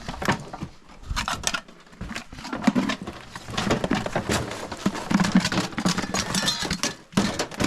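Dense, irregular clattering and knocking of hard junk being handled and tossed, many small impacts a second.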